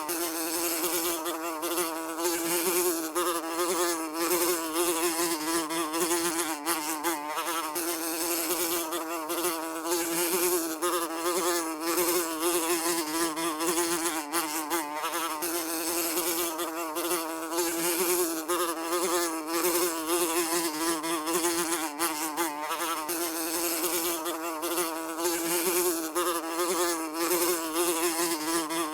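A housefly buzzing continuously, a steady drone around one pitch that wavers slightly up and down as it flies.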